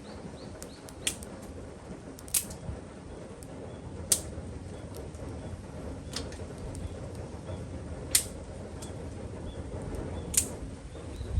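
Wood campfire burning with a steady low rush, broken by about six sharp crackling pops, roughly one every two seconds.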